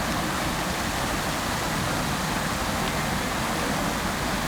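Fountain water falling and splashing into its basin: a steady, even rushing hiss.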